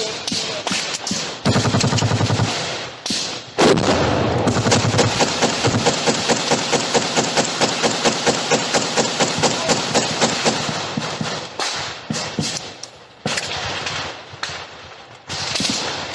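Automatic small-arms gunfire: scattered shots, then a long stretch of rapid, continuous fire from about four seconds in until about eleven seconds, followed by more irregular shots.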